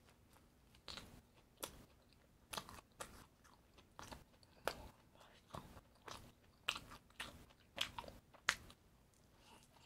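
A person biting and chewing crisp, crunchy food: a dozen or so sharp crunches, about one every half second, falling quiet near the end.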